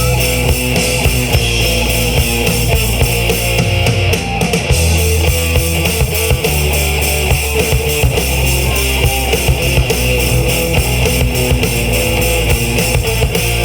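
Rock band playing live: drum kit, distorted electric guitars and bass guitar in a heavy rock passage.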